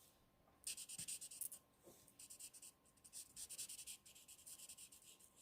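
Faint, rapid back-and-forth strokes of a colouring marker on cardstock, in three short runs, as petals are coloured in and blended.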